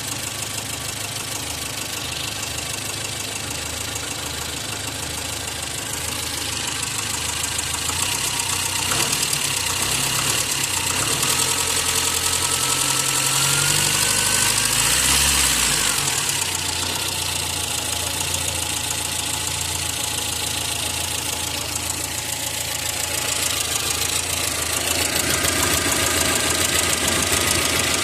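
VAZ 2114 eight-valve four-cylinder engine running at idle, revving up through the middle and falling back to idle, with extraneous noises after a rebuild that replaced the crankshaft, all bearing shells, thrust half-rings, piston rings and one connecting rod.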